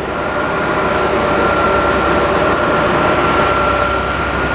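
Rear-mounted Cummins ISC diesel engine of a Blue Bird All American bus idling, heard inside the cabin as a steady low rumble with two steady whine tones over it. It grows slightly louder in the first second.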